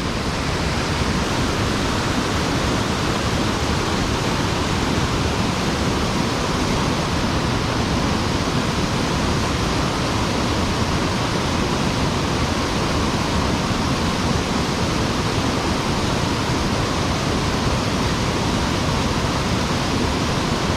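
Mountain stream water rushing and falling, a steady unbroken noise.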